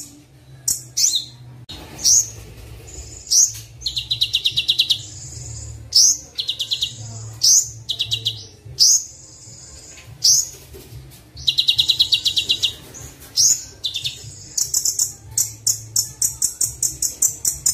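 Kolibri wulung (a sunbird) singing: sharp high chirps mixed with fast buzzy trills a second or so long, then a quick run of rapidly repeated notes near the end, over a faint low hum.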